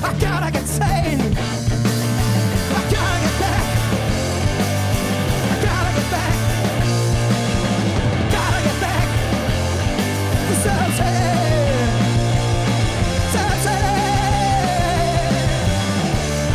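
Live rock band playing loud, dense music, with a heavy bass line moving between held notes and sliding notes above it.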